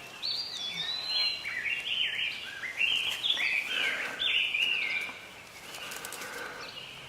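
Baby American robins calling: a rapid series of high, sliding chirps for about five seconds, then fainter. They are distressed calls from nestlings being handled.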